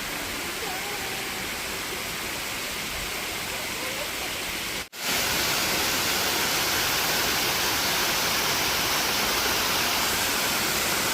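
Waterfall rushing: a steady noise of falling water that breaks off for an instant about five seconds in and comes back louder.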